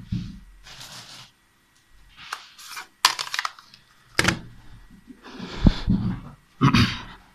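Rummaging and handling of objects on a desk while a calculator is fetched: rustling with several sharp clacks and knocks, about four of them in the second half.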